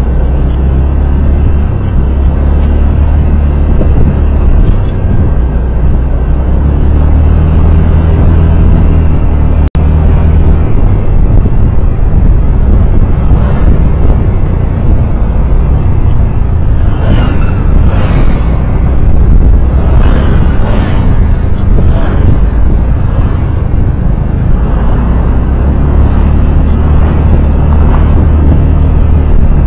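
Road noise of a vehicle driving in traffic: a loud, steady low rumble with tyre and wind noise. From about halfway in, a series of swells rises and falls, like other vehicles passing.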